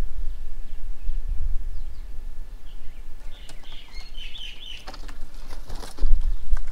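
Birds at a feeding table: a brief run of chirping calls about halfway through, then a quick flurry of clicks and wing flutter. A low rumble lies underneath and swells near the end.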